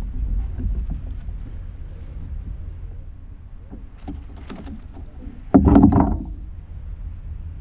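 Handling sounds in a kayak as a netted snook is worked in a landing net on the angler's lap: small knocks and rustles over a steady low rumble, with a louder scuffle about five and a half seconds in.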